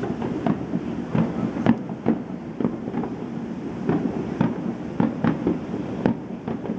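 Aerial fireworks bursting at a distance: irregular sharp bangs, about two a second, over a steady low rumble.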